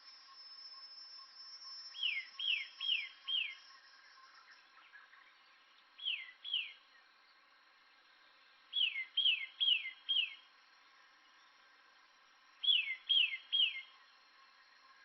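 A bird calling in short groups of clear whistled notes, each note sliding steeply down in pitch: four notes, then two, then four, then three. A faint steady insect-like drone runs underneath.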